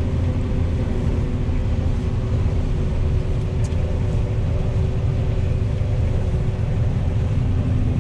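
Combine harvester running steadily while cutting soybeans, heard from the cab: a constant low rumble with a steady mechanical hum over it.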